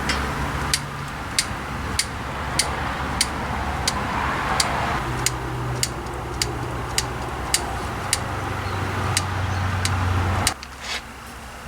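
Powered grease gun running steadily, pumping grease through a grease fitting into a truck kingpin, with a sharp click at each pump stroke, a little under two a second. It cuts off suddenly about ten and a half seconds in.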